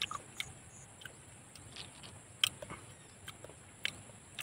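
Irregular small clicks and taps of freshwater snail shells being handled while the meat is picked out of a shell by hand, one louder click about two and a half seconds in.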